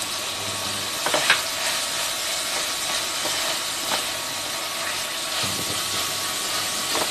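Chopped onions and mixed vegetables sizzling steadily in hot ghee in a steel pot while being stirred, with a few scrapes and knocks of the spatula against the pot.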